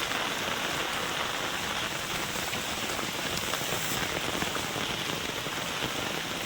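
Heavy rain pouring down and pattering on surfaces in a steady, dense hiss.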